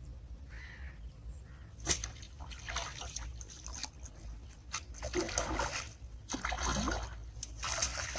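Water splashing in irregular bursts, growing busier in the second half. A crow caws faintly early on, and there is one sharp click about two seconds in.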